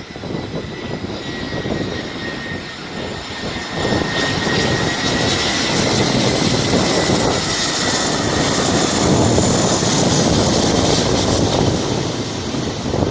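Jet engines of an airliner at takeoff power, heard from behind the aircraft in its jet blast: a dense rush of noise with a faint steady whine, growing louder about four seconds in.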